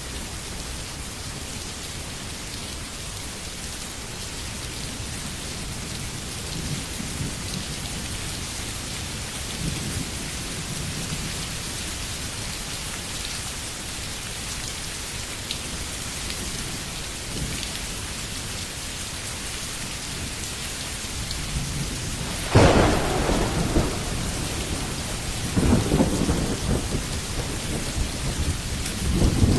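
Steady rain falling, a continuous even hiss, with distant thunder rumbling low from about a quarter of the way in. Near the end a loud thunderclap cracks sharply and rolls on in further bursts.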